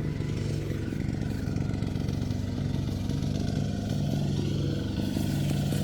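Tractor engine running steadily at a constant speed, with a fast, even chugging.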